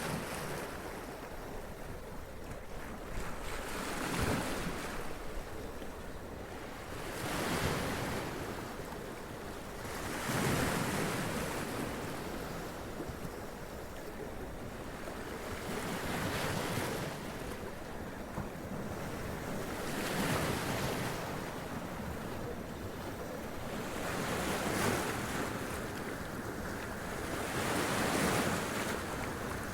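Sea waves breaking and splashing up against rocks, one surge every three to four seconds, over a steady wash of surf, with some wind on the microphone.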